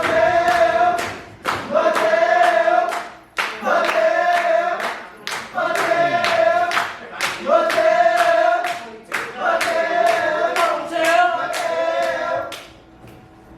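A group of voices chanting or singing a short drawn-out phrase over and over, about once a second, over rhythmic clapping. It dies down near the end.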